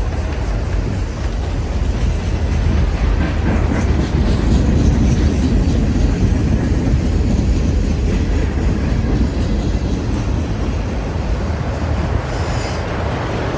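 Norfolk Southern freight train's cars rolling steadily past, wheels running on the rails.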